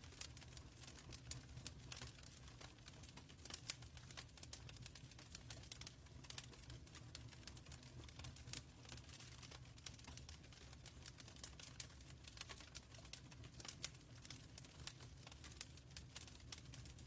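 Wood fire burning in a fireplace, faint: irregular crackles and small pops over a steady low rumble.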